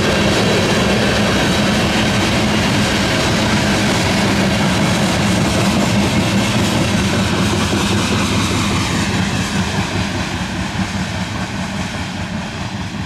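Freight train cars (covered hoppers and tank cars) rolling by, a steady rumble of steel wheels on rail that fades over the last few seconds as the train draws away.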